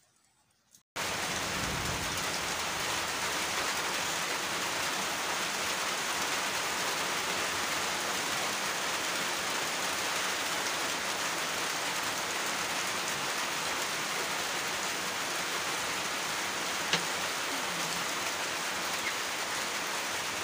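Rain falling steadily, a dense even hiss that starts abruptly about a second in.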